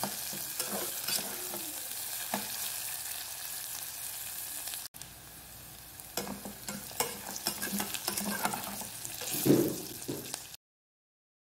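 Chopped onion, garlic, ginger and green chillies sizzling in hot oil while a spatula stirs them and scrapes the bottom of a metal pot. The sizzle drops a little about halfway through, and everything cuts off suddenly near the end.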